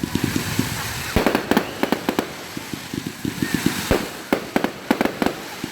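Fireworks going off: a rapid, uneven run of sharp cracks, with several louder bangs mixed in.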